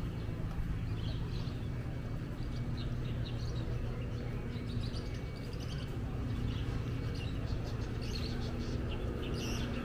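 Small birds chirping over and over, short high chirps scattered throughout, above a steady low street hum.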